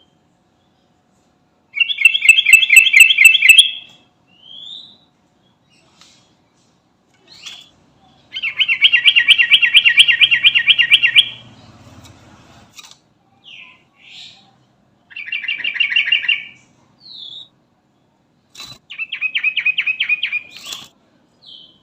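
Yellow-vented bulbul (trucukan) singing in four loud bursts of rapid chattering notes, with short single chirps between the bursts.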